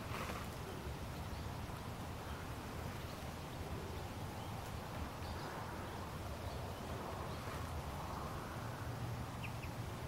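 Steady outdoor background noise with a few faint, short chirps from small birds, two of them close together near the end.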